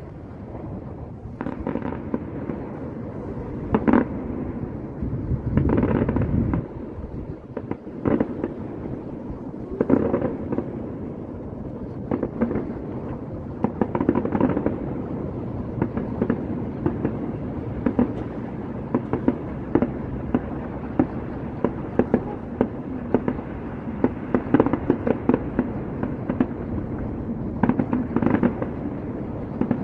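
Fireworks going off repeatedly: a long run of sharp bangs and crackling pops, some in dense clusters, over a steady low background noise.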